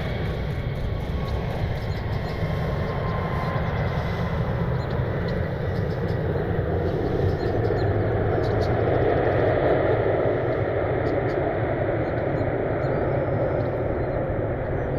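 Jet aircraft engine noise: a steady rumble with a faint high whine, swelling around nine to ten seconds in.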